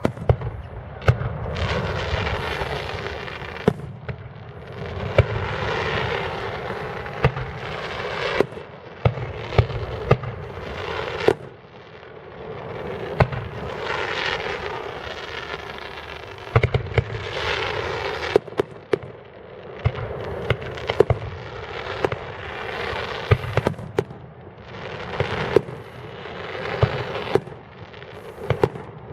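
Fireworks display: a rapid run of sharp bangs from shells going off, mixed with swells of hissing and crackling that last a second or two each.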